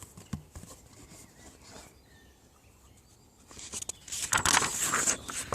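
Paper rustling as a picture book's pages are handled and turned, with a few soft clicks at first and a louder rustle for the last two seconds.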